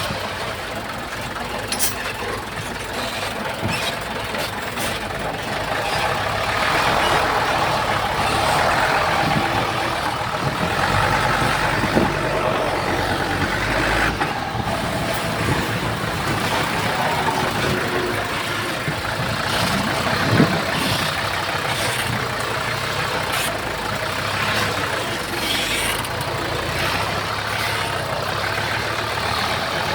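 Diesel engines of heavy earthmoving machines running steadily, with a few short sharp knocks, the loudest about twenty seconds in.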